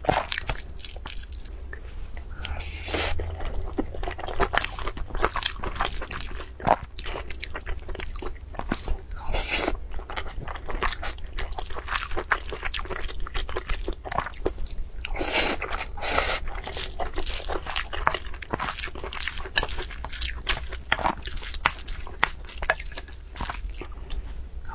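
Close-miked eating: mouthfuls of fried rice being chewed with many small wet, crunchy clicks, and the wooden spoon scooping through the food in a glass bowl, over a steady low hum.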